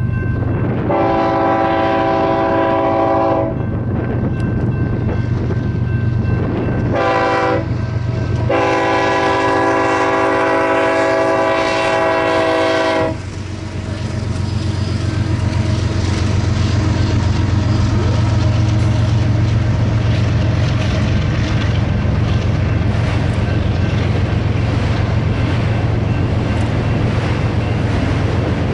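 BNSF diesel freight locomotives sounding a multi-tone air horn for a grade crossing: a long blast, a short one, then a long held blast. The locomotives then pass with a heavy engine rumble, followed by empty autorack cars rolling by with steady rhythmic wheel clatter.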